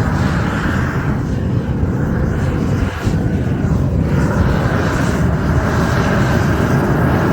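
Loud, steady rushing noise with no clear pitch, building up just before and then holding level.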